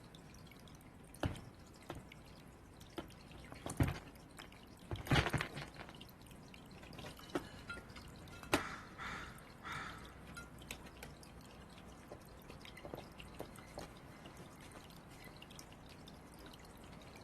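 Irregular sharp taps and knocks, a handful of them, over a faint steady background, with two short pitched calls about nine and ten seconds in.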